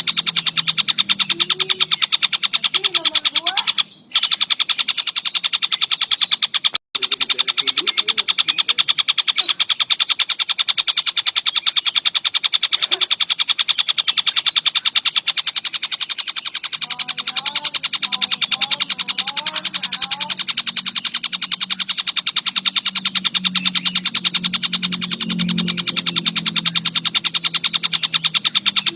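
Tengkek buto kingfisher calling nonstop in a fast, tight, chattering trill of high, sharp notes. The trill cuts out briefly twice, about four and seven seconds in, over a low steady hum.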